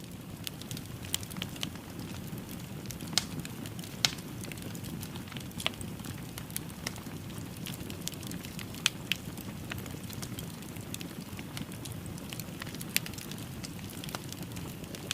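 Fire crackling in a fireplace: a steady low rumble of burning with irregular sharp pops and snaps, the strongest a few seconds in, around 4 seconds, and again near 9 and 13 seconds.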